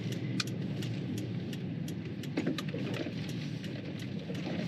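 Toyota 4Runner cabin noise while driving: a steady low road-and-engine rumble, with frequent irregular sharp clicks and rattles over it.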